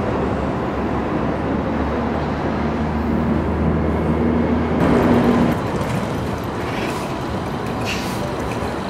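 Electric train running on an elevated viaduct as it pulls out of the station, with a low steady tone in the noise. About five and a half seconds in this gives way to road traffic noise as a vehicle approaches along the street.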